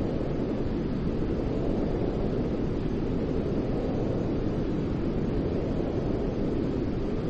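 Steady white noise of the kind played to soothe a crying baby to sleep: an even, unbroken rush, deep and rumbling rather than hissy.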